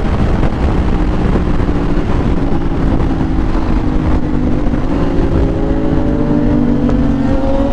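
Motorcycle engine running at highway speed under heavy wind rush on a helmet microphone. About five seconds in, the engine note begins to climb gradually as the bike accelerates.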